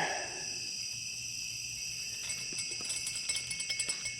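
Steady chorus of night insects, several high-pitched trills layered together, with a few faint ticks in the second half.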